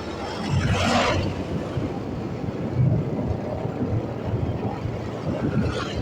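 Motorcycle riding along: wind buffeting the microphone over the engine and road noise, with a louder rush of noise about a second in.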